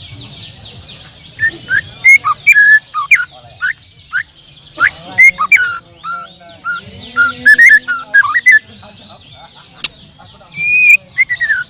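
Several songbirds singing at once: loud, clear whistled and chirping phrases come again and again over a dense chorus of higher twittering, with a low background hum.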